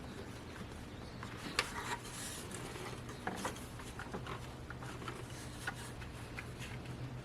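Hands working on parts: scattered light clicks, taps and rubbing, over a steady low hum.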